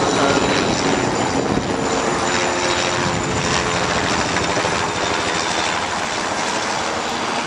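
Helicopter flying low overhead, its rotor chop and engine running steadily and slowly fading as it passes.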